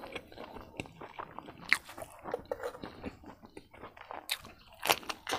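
Close-miked chewing of a mouthful of rice and curry: wet smacks and small clicks, with a few sharper crunchy bites about a second and a half in and near the end.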